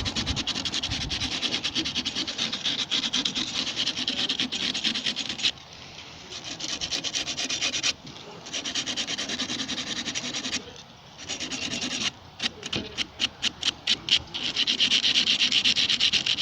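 A gas water heater's thermocouple being scrubbed by hand with an abrasive: rapid back-and-forth scraping in spells broken by short pauses, with slower separate strokes, about four a second, shortly before the end. The part is being cleaned back to bare metal so the pilot stays lit.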